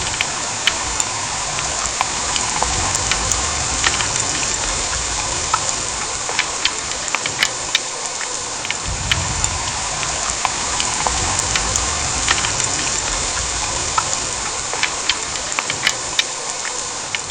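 Heavy rain pouring steadily, with many sharp, close raindrops ticking through the hiss. A low rumble swells in and out underneath, most strongly around the middle.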